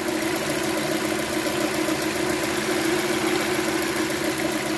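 Chevrolet Cruze engine idling steadily. It runs without the noise from the cam phaser gears, since both phaser gears have just been replaced.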